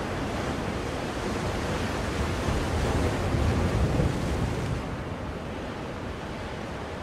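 Ocean waves washing in as a steady rushing noise; one wave swells to its loudest past the middle and falls away about five seconds in.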